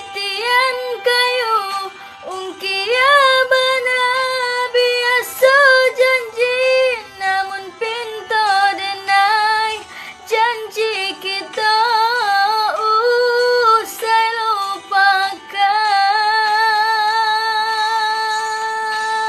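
A female voice singing a melismatic melody with wavering, gliding pitch, ending on a long held note with vibrato near the end.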